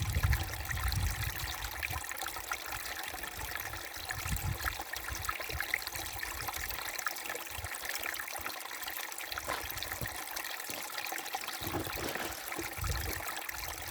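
A small brook babbling and trickling steadily over stones, with occasional low rumbles.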